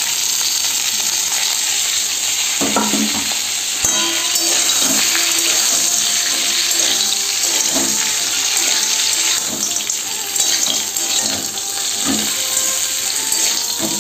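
Pre-fried vegetables sizzling steadily in hot oil in a metal kadai, with a metal spatula now and then scraping and tossing them against the pan.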